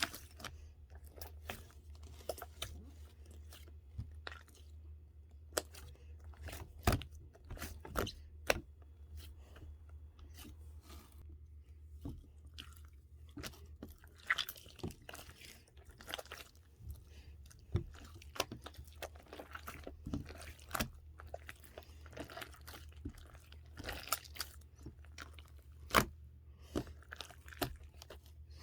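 Irregular crunching and sharp clicks, as of someone chewing crunchy food, over a steady low hum.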